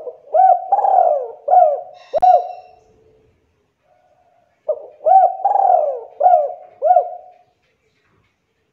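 Spotted dove (tekukur) singing its cooing song: two phrases of several coos, one at the start and one about halfway through, with a sharp click near the end of the first phrase.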